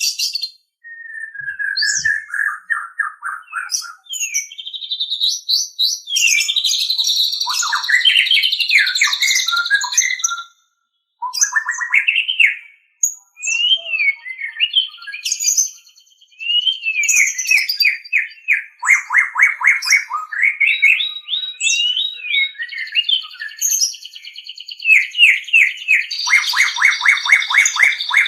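White-rumped shama (murai batu) singing a long, varied song of clear whistles, sweeping glides and fast rattling trills, broken by a few brief pauses.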